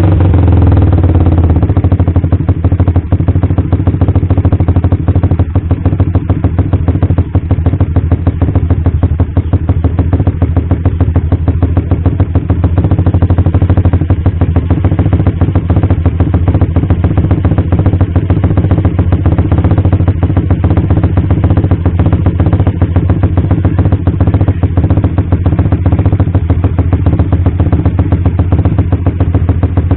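Suzuki Satria FU's 150 cc single-cylinder four-stroke engine idling steadily through an aftermarket exhaust, a loud, even throb.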